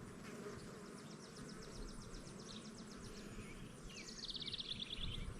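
Honeybees buzzing around an open hive as a low, steady hum, while a bird sings two rapid high trills in the background, the second near the end dropping slightly in pitch.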